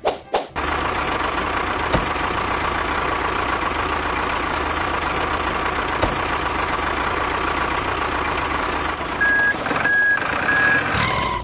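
Truck engine running steadily, with three reversing beeps near the end.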